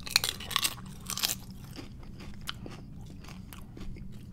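Bite and chew of a chili-cheese-covered tortilla chip: loud crunches in the first second and a half, then quieter chewing.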